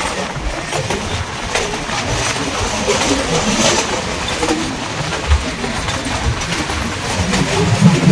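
Nilgiri Mountain Railway train running, the rumble and rattle of the carriage heard from on board, with scattered knocks.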